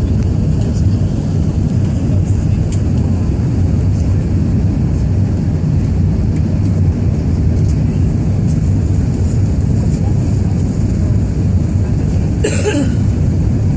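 Steady low rumble of an Airbus A380 heard from inside the cabin: engine and airflow noise at a constant level. A short, brighter rustling sound cuts through about a second before the end.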